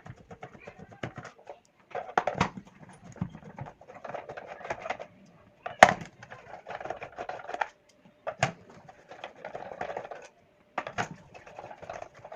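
Plastic power strip and hand tools being handled on a work surface: a few sharp knocks a couple of seconds apart, each followed by rattling and scraping.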